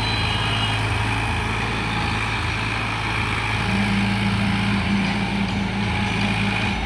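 Tractor diesel engine running steadily under the load of a fully loaded trolley, its pitch rising slightly about halfway through.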